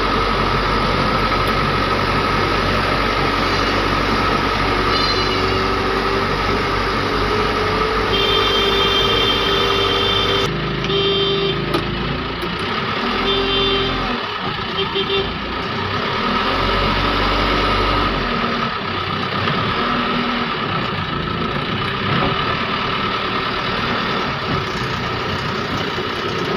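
Heavy diesel engine of a tractor or backhoe loader running steadily, working in mud. A vehicle horn sounds several short times, the longest blast about eight seconds in.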